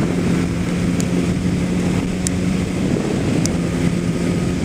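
Kawasaki Ninja ZX-10R's inline-four engine running at a steady cruise, its pitch holding level, mixed with wind rush on the microphone.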